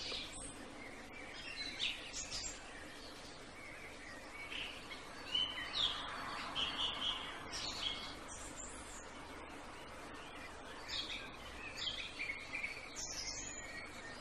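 Songbirds chirping in short, scattered calls over steady outdoor background noise.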